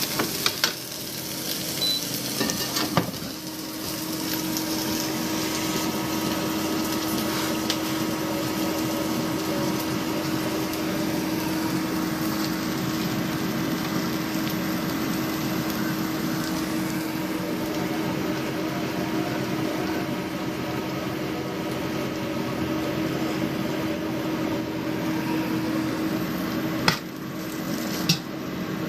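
A steady low hum from a running kitchen appliance, with a few sharp clicks and knocks about three seconds in and again near the end.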